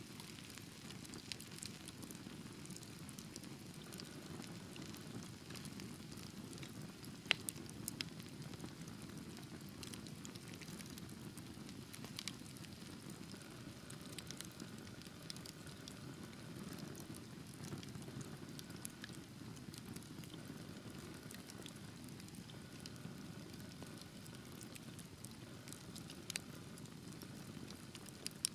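Wood fire burning in a fireplace, a steady low hiss and rumble of flames with scattered sharp crackles and pops; the loudest pop comes about seven seconds in. A faint thin whistle runs through the middle stretch.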